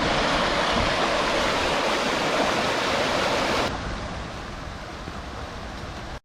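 Steady rushing of water, loud for about three and a half seconds, then abruptly quieter and duller for the rest.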